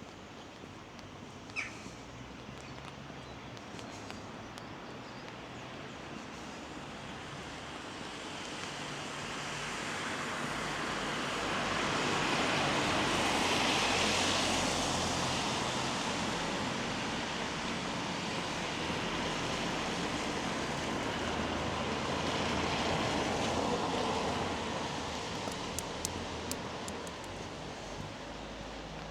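Vehicles passing on a wet road, their tyres hissing. The hiss swells and fades once loudly around the middle, then again more weakly a little later.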